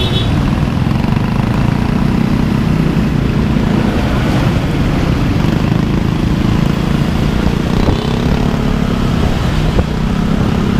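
A road vehicle on the move: a steady low engine hum with road noise, unbroken throughout.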